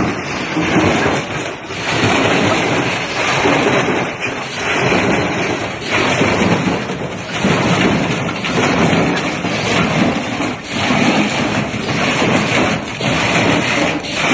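Washing machine running with a large stone inside its drum: a loud, continuous clattering rumble that surges and dips every second or two as the machine batters itself.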